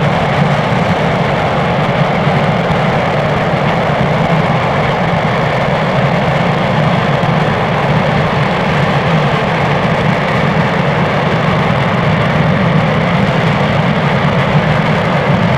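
RS-25 liquid-hydrogen/liquid-oxygen rocket engine running steadily in a hot-fire test: a loud, even, unbroken rush of noise with a deep rumble underneath.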